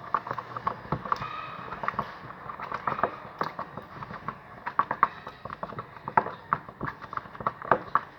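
A stirrer clicking and tapping against the container while thick slime mixture with lotion in it is stirred, in quick irregular strokes.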